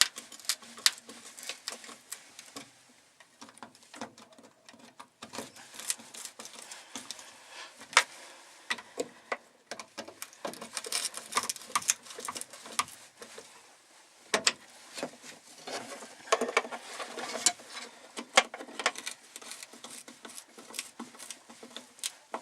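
Small screws being tightened one after another with a hand tool: a long run of irregular metallic clicks and taps, denser in bursts.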